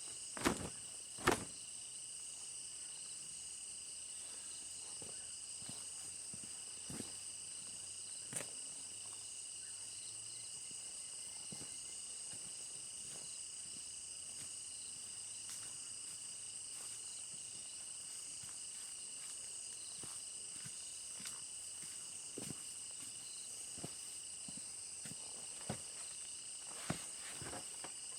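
Steady chorus of insects shrilling at several high pitches at once, with a few scattered sharp clicks or knocks, the two loudest in the first second and a half.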